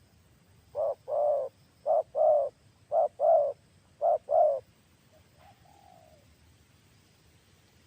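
Spotted dove cooing: four two-note phrases in a row, each a short coo followed by a longer, louder one, then a single fainter drawn-out coo about five seconds in.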